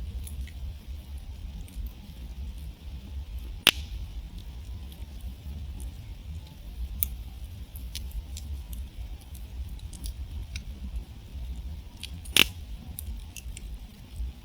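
Wood campfire burning and crackling, with scattered sharp snaps and two loud pops, one about four seconds in and one near the end, over a steady low rumble.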